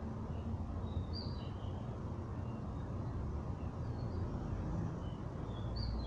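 A few short, high bird chirps: a cluster about a second in, one near four seconds and another near the end, over a steady low rumble.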